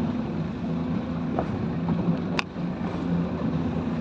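Speedboat engine running steadily, with wind and water noise, and a single sharp click about two and a half seconds in.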